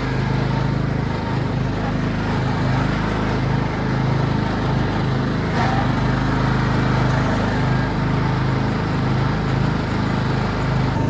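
Tractor engine running steadily, with a brief knock about halfway through.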